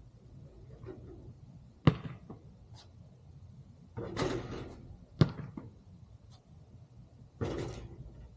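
A basketball hitting a hard surface twice with sharp thuds, about three seconds apart. Two short rustling swishes come between and after the thuds.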